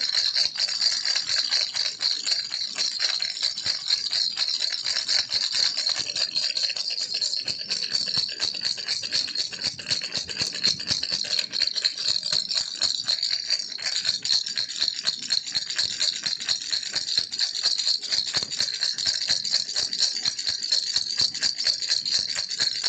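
Baby rattle shaken continuously: a dense, rapid, high-pitched clatter of many small strikes that keeps going without a break.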